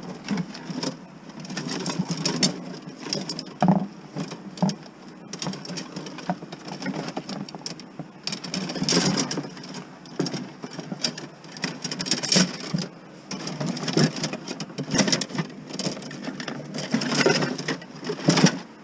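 Irregular clattering and rustling as a set of jumper cables is picked up and handled, with the clamps knocking now and then.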